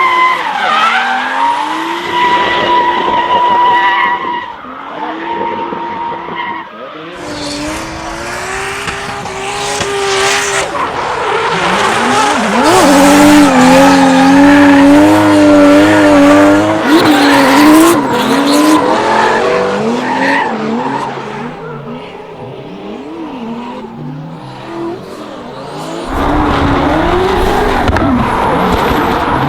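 Toyota Supra MK4's 2JZ straight-six revving hard up and down while drifting, with tyres squealing. The sound changes abruptly about a quarter of the way in and again near the end.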